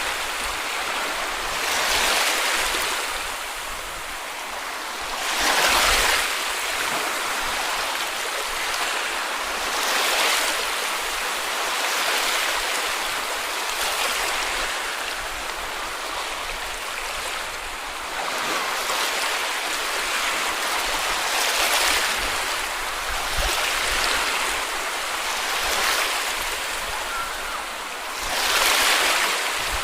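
Small sea waves breaking and washing up a beach, a steady hiss of surf that swells every few seconds as each wave comes in.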